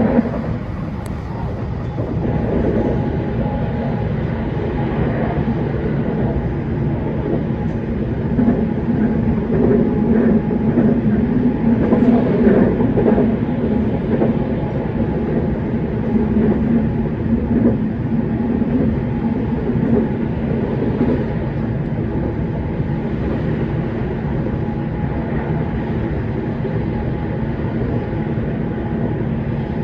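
JR West 227-series electric train running, heard from inside the car: a steady hum from the traction motors over continuous wheel-on-rail rumble as it climbs the steep Seno–Hachihonmatsu grade.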